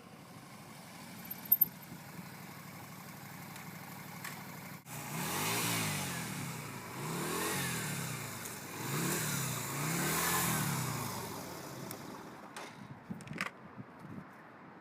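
The Yamaha V Star 250's small V-twin motorcycle engine runs steadily at first, with a single sharp click about a second and a half in. After about five seconds the engine revs up and down about four times in a row, its pitch rising and falling, then settles back to a lower running sound with a few light clicks near the end.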